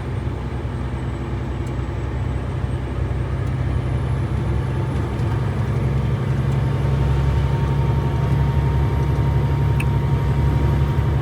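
Renault T-range truck's diesel engine droning steadily under load, heard from inside the cab, slowly getting louder.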